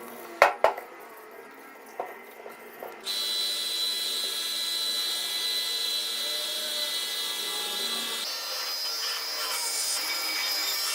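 Two sharp knocks, then about three seconds in an electric power tool starts and runs steadily with a high whine, its sound shifting a little about eight seconds in.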